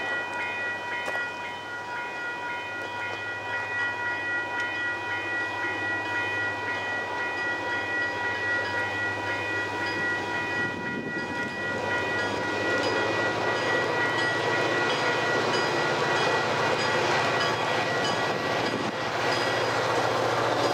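Approaching freight train led by diesel locomotives RLK 3029 and 2074, a low rumble that grows steadily louder from about halfway through as the train nears. Through the first half a steady high ringing tone with overtones is heard, fading out about halfway.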